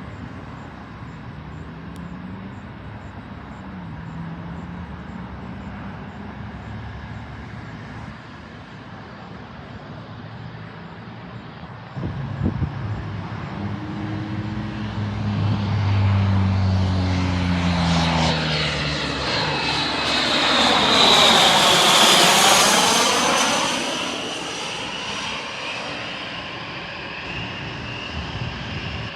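Fixed-wing airplane passing close by. Its engine sound grows louder from about twelve seconds in and peaks around two-thirds of the way through, with a high whine that drops in pitch as it goes past, then fades.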